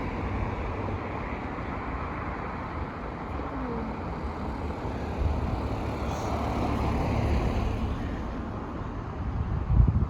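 Road traffic passing over the level crossing, a steady rush of car noise that swells for a few seconds in the middle, with wind rumbling on the microphone and a sharp gust just before the end.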